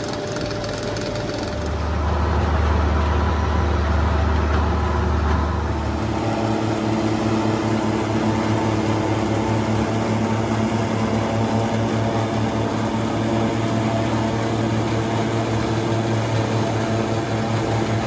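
Farm tractor engine running steadily, with a heavier, deeper drone from about two to six seconds in before it settles.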